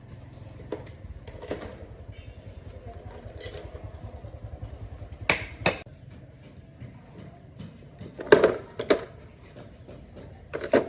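Sharp knocks and clanks of tools and parts being handled during repair work, five or so scattered through, the loudest a little past the middle, over a low steady hum.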